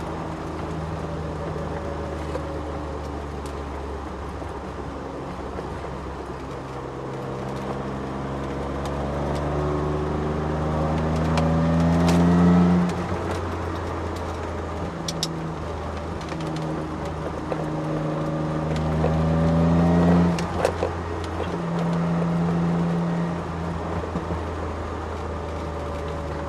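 Ford Sierra XR4x4's twin-turbo engine heard from inside the car on track. It pulls hard, rising in pitch twice and each time dropping off sharply as the driver lifts or shifts, with steadier running in between and a few knocks from the bumpy ride.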